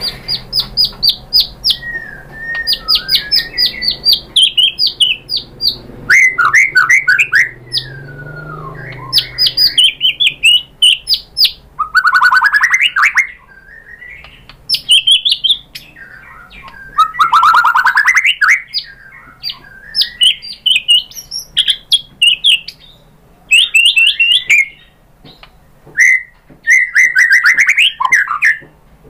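White-rumped shama (murai batu) singing loudly in quick, varied phrases of rapid repeated notes, whistled sweeps and trills, with short pauses between phrases. It is singing at full pitch, its song packed with mimicked phrases.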